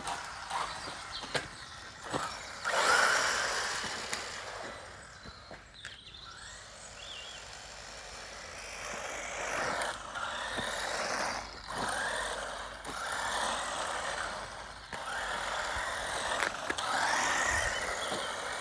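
Small radio-controlled cars driving over rough ground: repeated swells of tyre-on-dirt scrabbling noise as they pass, with scattered sharp knocks and clicks.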